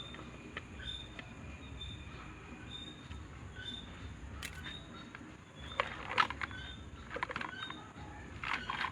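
Small birds chirping in short repeated high notes, with a run of sharp clicks and taps in the second half.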